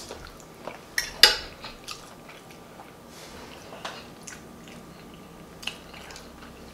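Close-miked mouth sounds of a person chewing soft food (smothered turkey wing meat and mashed potatoes), with wet lip smacks and scattered sharp clicks. The sharpest click comes just over a second in, and the sounds thin out after about two seconds.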